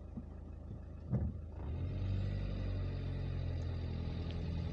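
Car engine running with a steady low hum. A short knock comes about a second in, and the engine grows a little louder soon after.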